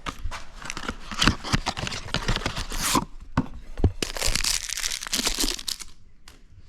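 Packaging of a new oil filter being torn open and crumpled, with scattered sharp clicks and knocks and a long tearing rustle from about four seconds in.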